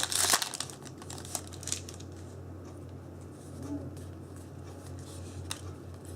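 Foil booster-pack wrapper crinkling and cards being handled for the first couple of seconds, then a few light clicks over a steady low hum.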